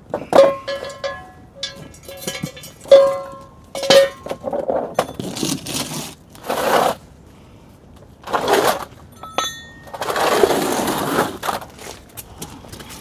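A hammer and punch striking the steel locking tab of a jack stand, four or five sharp metallic hits that ring briefly, driving the tab in to lock the ratchet bar. Three longer noisy sounds of a second or so each follow in the second half.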